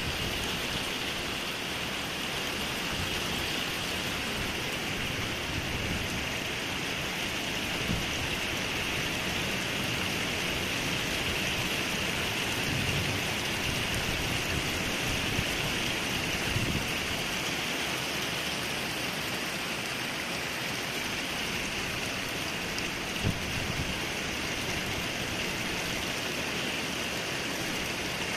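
Heavy thunderstorm rain falling steadily, a constant even hiss, with a few brief taps of drops at scattered moments.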